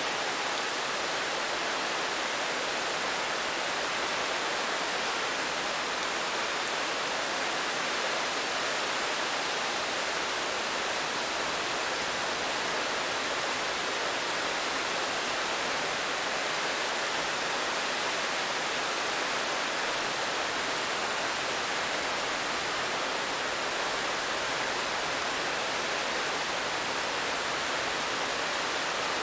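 Steady rain, an even hiss that holds the same level throughout, with no single drops, thunder or other events standing out.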